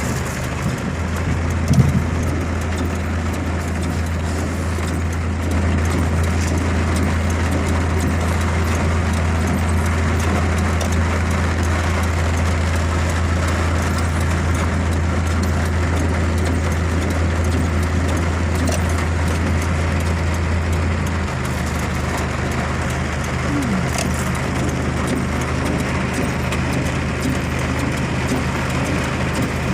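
A car running with a steady low engine hum over road noise; the hum shifts slightly higher in pitch about two-thirds of the way through.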